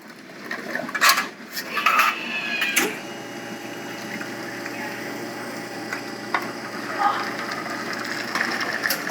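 Espresso machine running: after a few clicks and clatter, its pump settles about three seconds in into a steady hum with liquid running.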